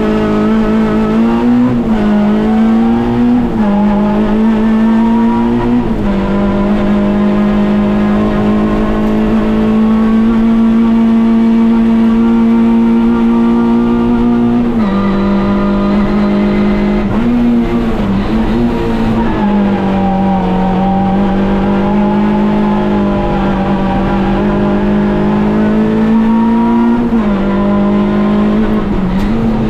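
Peugeot 206 Group A competition car's four-cylinder engine at high revs under hard acceleration, heard from inside the cockpit. The pitch climbs, drops sharply at gear changes and lifts, and climbs again several times, with a long steady flat-out stretch in the middle.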